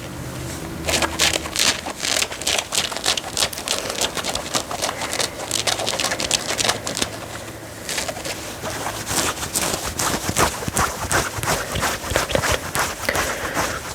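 Fingernails scratching fabric close to the microphone, a rapid run of short scratching strokes with brief pauses.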